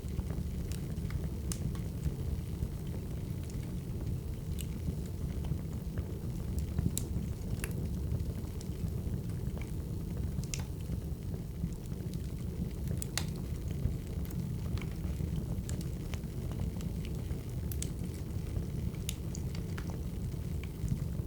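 Wood fire burning, with a steady low rumble and irregular sharp crackles and pops.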